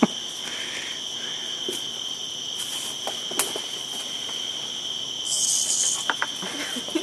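Steady high-pitched insect chorus in the background. About five seconds in, a cicada on the ground gives a brief harsh buzz lasting under a second.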